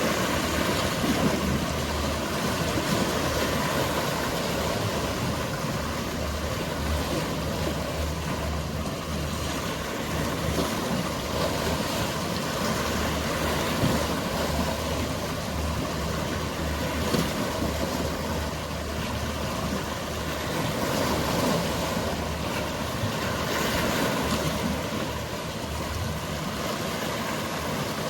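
Sea waves washing, rising and falling in swells, over the steady low hum of a boat engine.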